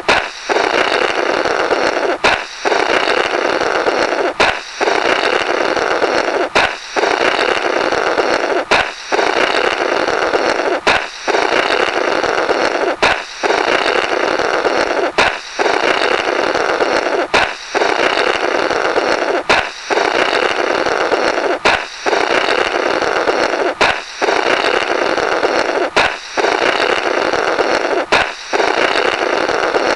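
A balloon pops, then someone blows through the burst rubber in a long, noisy, comical "blorrrt". The pop-and-blow repeats about every two seconds.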